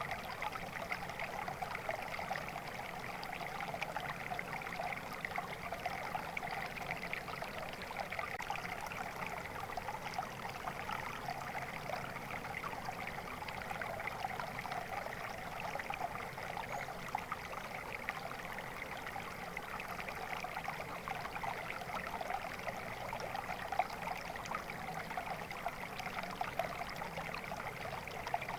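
Stream of water flowing steadily, a continuous babbling and trickling.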